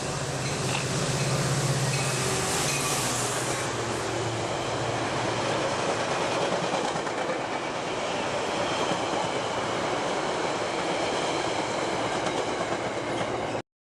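Train passing close by: a loud, steady rush of wheel and rail noise, with a low engine hum in the first few seconds that fades out. The sound cuts off suddenly near the end.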